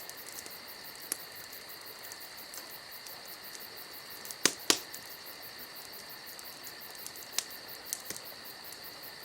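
Insects, such as crickets, chirring steadily in a fast, even pulse. A few sharp clicks sound over them, the loudest two close together about four and a half seconds in.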